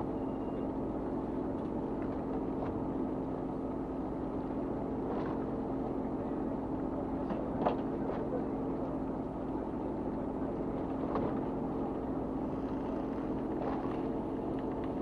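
Fishing boat's engine running steadily, a constant hum, with a few short sharp knocks or splashes over it, the clearest about halfway through.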